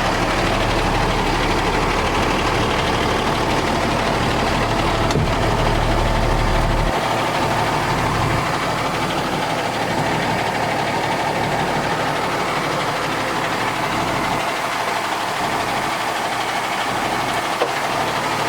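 Cummins 6.7L ISB inline-six diesel of a 2011 Ford F750 water truck idling steadily. Its deep low rumble drops away about seven seconds in while the engine keeps running.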